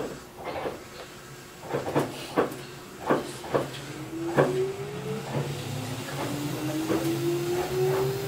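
Kintetsu 8810-series electric train running, heard from inside: the wheels clack sharply over rail joints or points at uneven, roughly half-second intervals over a steady low hum. About four seconds in, the traction motors and gears set up a rising whine as the train gathers speed.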